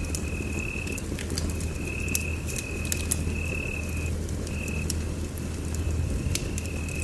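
Wood fire in a fireplace crackling, with scattered sharp pops over a low steady rumble. A thin, steady high tone comes and goes in stretches of about half a second to a second and a half.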